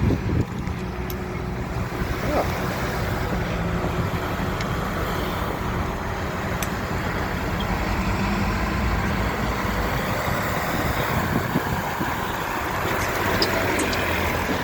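Diesel locomotive engine running steadily during a shoving move.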